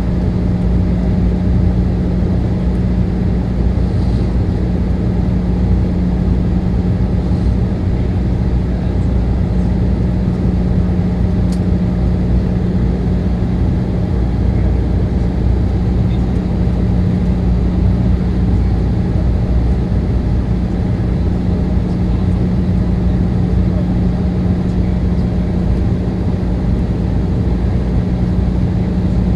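Airliner cabin noise: the engines and airflow as a loud, even low rumble with a constant hum, unchanging throughout.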